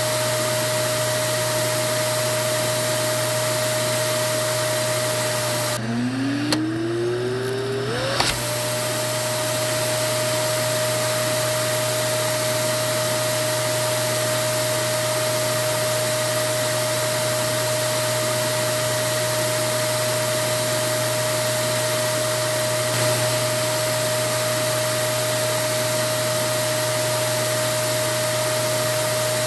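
Vacuum cleaner running steadily: an even rushing of air with a steady motor whine. About six seconds in, the rushing drops away and the whine falls low, then rises steadily back to full over about two seconds as the motor spins up again.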